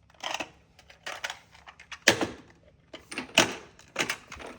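Toys being handled, knocking and clacking irregularly, about eight short knocks with the loudest about two seconds in and just after three seconds.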